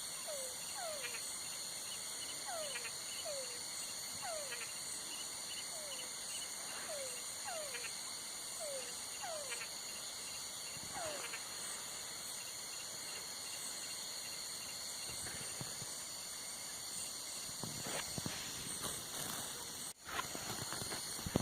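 Night chorus of crickets: a steady high chirring drone. Over it an animal gives short calls that fall in pitch, about once a second through the first half. The sound drops out briefly near the end.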